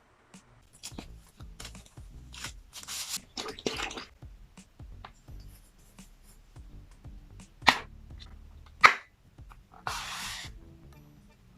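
Packaging being handled: rustling and crinkling with scattered clicks, and two sharp plastic-like clicks in the second half, over faint background music.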